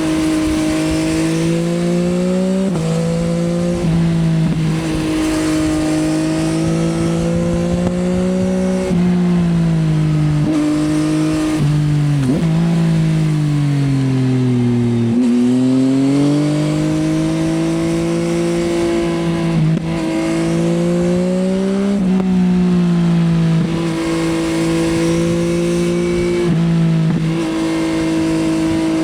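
2024 Yamaha XSR900's inline-three engine through an Akrapovič Racing Line exhaust, ridden under way: revs climb and break off briefly again and again as gears change. Around the middle the revs fall off for a few seconds as the bike slows, then build again through further gear changes.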